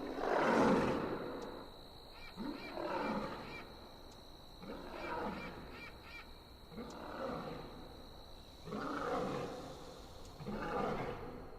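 An animal giving six hoarse calls, each about a second long, evenly spaced about two seconds apart.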